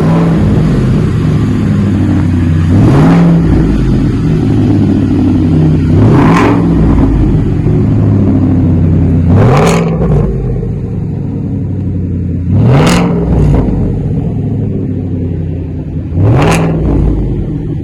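A 2019 Ford F-150's 5.0 Coyote V8 idling through a cat-back true dual exhaust with an X-pipe and no mufflers, still cold. It is blipped five times, about every three seconds, each rev rising and falling quickly.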